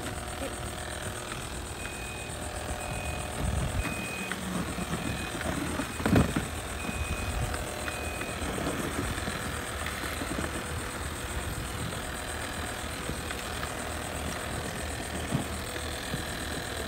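Roomba robot vacuums running on a tabletop with a steady whir of motors and brushes. A run of short high electronic beeps comes through the first half, and there are a couple of brief knocks about four and six seconds in.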